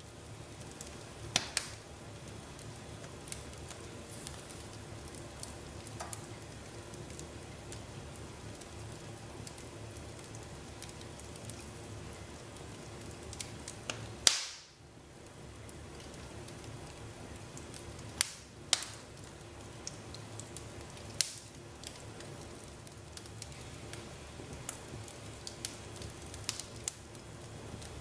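Wood fire burning in a fireplace: a steady low hiss with sharp pops and crackles every few seconds, the loudest about halfway through.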